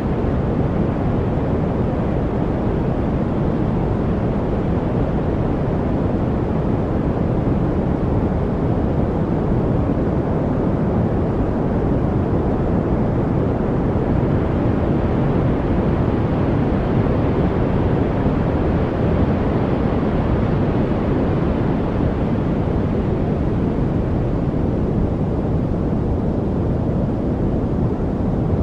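Steady white-noise track: an even, deep rushing hiss with more weight in the low end than in the highs, unchanging throughout.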